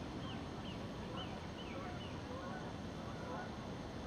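A small bird chirping over and over, short falling notes about two or three a second, which stop about two seconds in, over a steady low background rumble.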